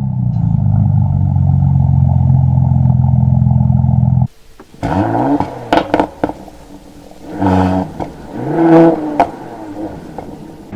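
High-performance car engine idling steadily, cutting off suddenly about four seconds in, then a series of short throttle blips with the pitch rising and falling, with a few sharp cracks between them.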